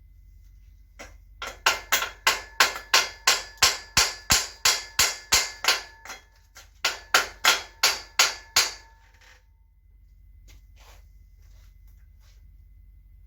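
Hammer blows on metal, about three a second with a ringing tone: a run of around fifteen strikes, a short pause, then about six more, followed by a few light taps. They are knocking a seized part loose on an old mountain bike.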